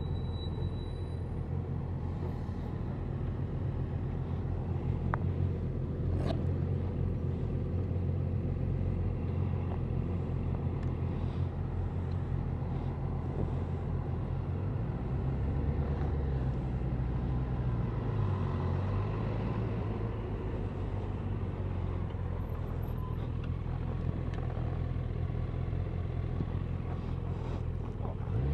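A motor vehicle engine runs steadily at a low, even speed. Its pitch dips and comes back up briefly a little past the middle, and there are a couple of faint clicks.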